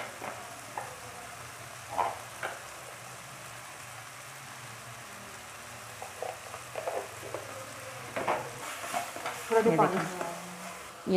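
Chicken pieces frying in oil in a nonstick wok, a steady sizzle with occasional light clicks; near the end a spatula stirs and turns them in the pan.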